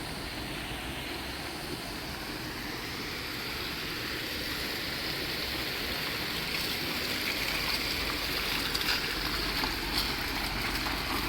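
Steady rushing noise of a car travelling on a wet highway, tyres hissing through water, growing a little louder toward the end.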